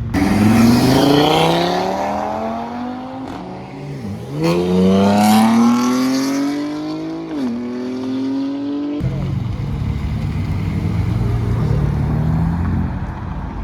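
Car engine accelerating hard through the gears: its pitch climbs, drops at an upshift about four seconds in, climbs again and drops at a second shift about seven and a half seconds in. About nine seconds in it changes abruptly to a lower, steadier engine rumble.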